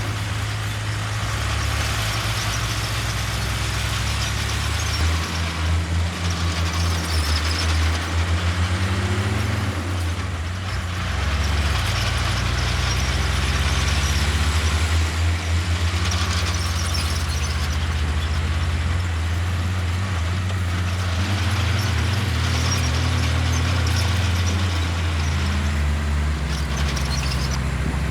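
Heavy diesel earthmoving machinery running under load. The engine note rises and falls as it works, with repeated high-pitched squeals every several seconds.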